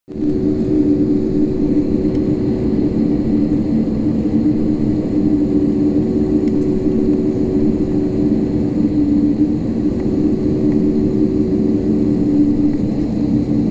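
Airliner cabin noise with the engines running: a steady low rumble under a constant droning hum.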